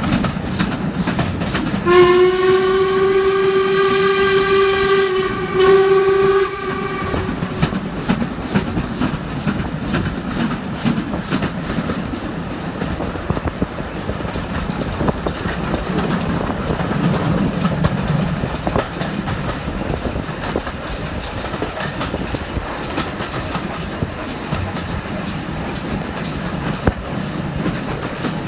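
A steam locomotive whistle, from the Stanier Black 5 hauling the train, sounds one long blast of about four and a half seconds with a brief dip near its end, about two seconds in. Under it runs the steady rumble of the carriages with a rhythmic clicking of wheels over the rails, heard from a carriage window.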